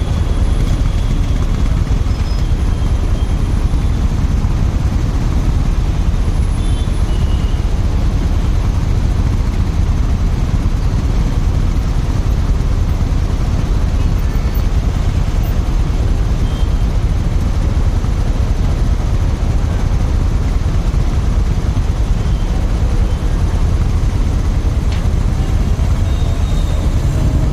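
Steady wind rush and road noise on a riding motorcyclist's microphone, a dense low rumble with vehicle sound underneath.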